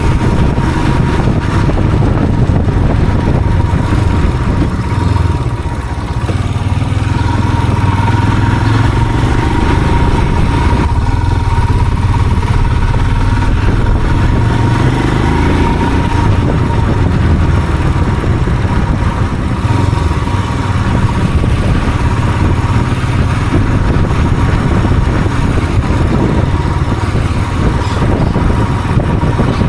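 A motor vehicle's engine running steadily on the move, with a thin steady whine over it.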